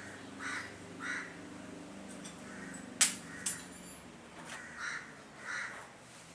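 Repeated short, harsh bird calls, a few in each burst, with a sharp click about three seconds in and a smaller one half a second later.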